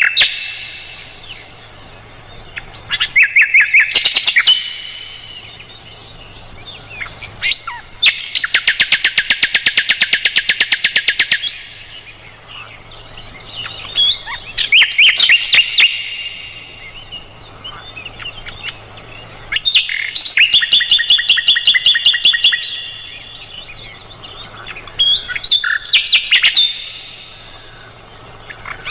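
Sikatan londo flycatcher singing: bouts of rapid, high trilled notes a few seconds long, repeated every five or six seconds with short pauses between. A faint steady low hum lies under the song.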